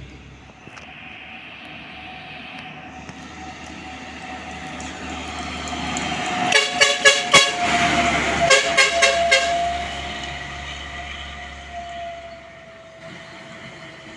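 A heavy road vehicle passing by, building up to a peak about halfway through and then fading. As it passes it sounds two quick runs of short horn toots.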